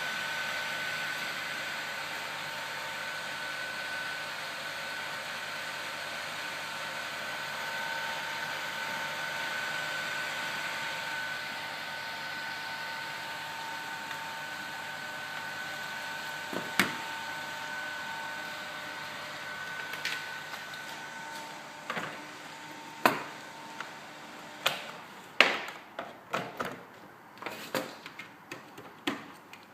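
Rework station's board-cooling fan running with a steady whine, which stops about two-thirds of the way through. A series of sharp clicks and taps follows, growing more frequent near the end.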